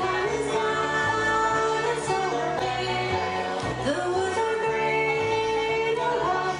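A bluegrass band playing live. A double bass steps out a steady beat under banjo and guitar, while a melody moves in long, bending held notes above.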